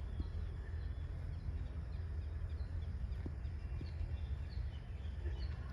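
Steady low outdoor background rumble with faint, short bird chirps repeating every second or so and a few faint clicks.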